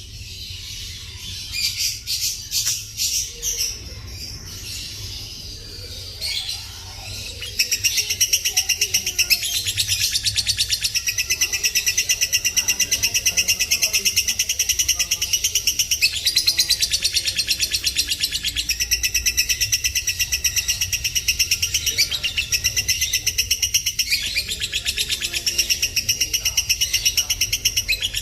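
Lovebird singing: a few separate high chirps, then from about seven seconds in a long, unbroken, very fast chatter of repeated high notes. This is the long, tightly packed song that bird keepers call gacor, prized as a master recording for training other birds.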